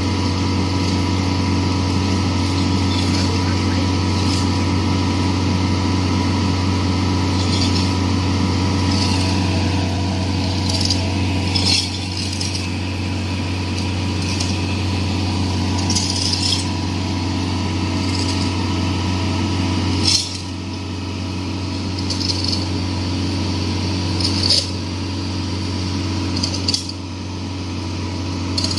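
Excavator engine running steadily, with sharp metallic clinks and knocks every few seconds; the engine sound drops a little after a few of the knocks.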